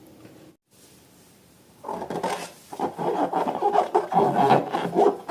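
Slime being squished and worked, a dense sticky crackling and popping that starts about two seconds in.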